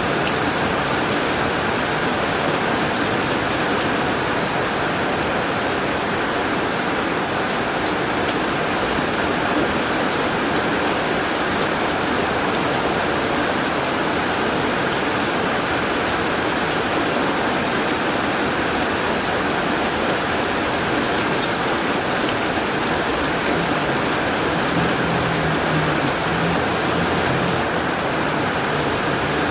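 Heavy rain falling steadily on a tin roof, with individual drops ticking sharply on the metal.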